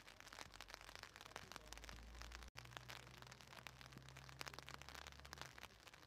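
Near silence with faint, dense crackling ticks over a low hum: light rain pattering. The sound cuts out for an instant about two and a half seconds in.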